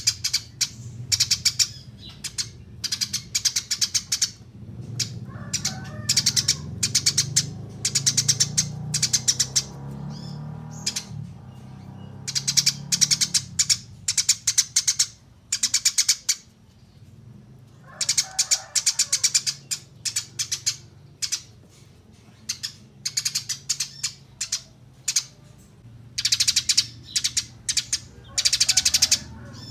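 Eurasian tree sparrow chirping in quick rattling bursts, each under a second long and repeated with short gaps, over a faint low rumble.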